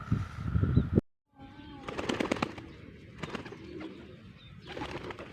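Racing pigeons cooing, with several short bursts of rapid clatter. About a second in, the sound cuts out for a moment before the cooing starts.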